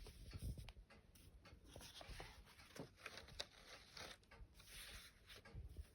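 Faint paper rustling with small soft clicks: pages of a children's book being handled and turned.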